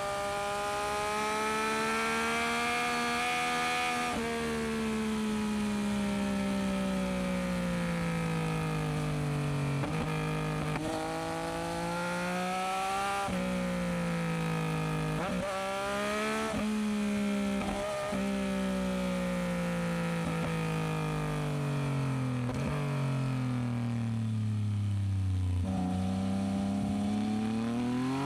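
Yamaha MT-09SP inline-three engine through an aftermarket Dominator exhaust under way, its pitch climbing with throttle and jumping abruptly at several gear changes. About two-thirds through it winds down in a long falling note as the bike slows, then revs up again near the end.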